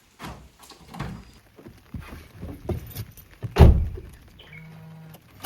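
Car door slammed shut with one heavy thunk about three and a half seconds in, among several lighter knocks and clunks of someone getting into a car, followed by a brief low hum near the end.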